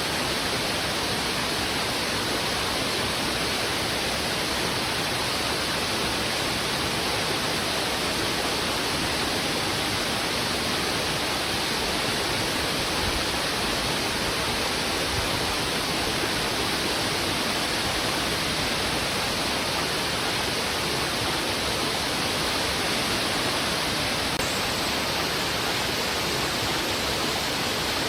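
Heavy river water rushing over rocks: a steady, unbroken roar of flowing water with no single splashes standing out.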